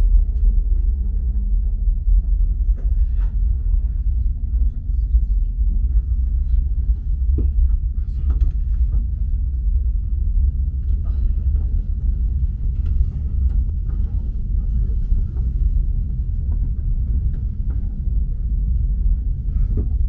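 Steady low rumble inside a passenger train carriage rolling slowly through a station, with faint scattered clicks and knocks.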